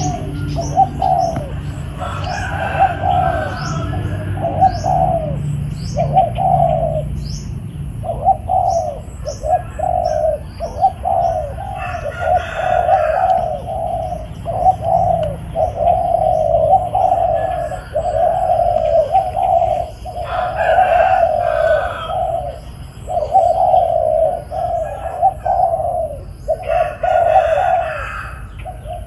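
Spotted doves cooing in a long run of repeated, evenly paced phrases, with short high chirps of small birds behind them.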